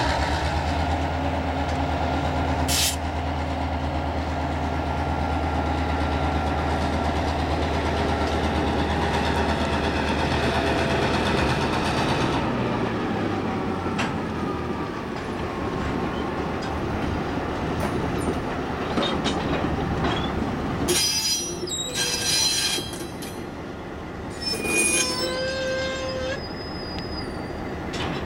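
Two EMD diesel locomotives, a GP18 and an SW800, pass with a steady deep engine drone that fades after about twelve seconds. Covered hopper cars then roll by with rumbling wheels, and there are several sharp, high-pitched wheel squeals a little after twenty seconds in.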